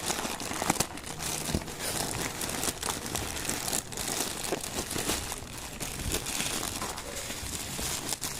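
Packaging of a 64 GB SD card crinkling and crackling as it is handled and opened by hand, with many small irregular clicks.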